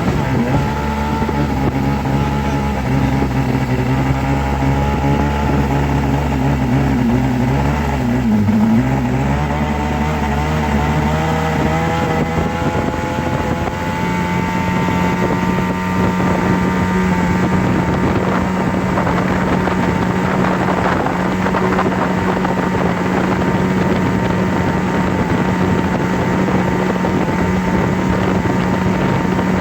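Steady motor-like hum made of several low tones; about halfway through it shifts and settles into a single steadier low hum.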